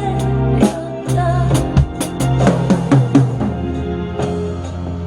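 Acoustic drum kit played along with a pop ballad's backing track: bass drum, snare and cymbal strikes, with a quick run of hits in the middle, over the song's bass and keyboard.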